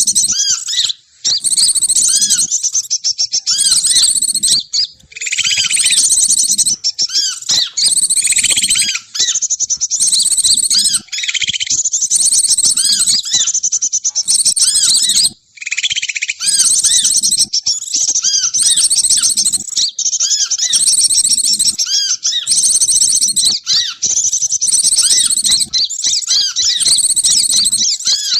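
Bird-trapping lure recording: dense, continuous high-pitched chirping and chattering of small birds, many calls overlapping, broken by brief gaps.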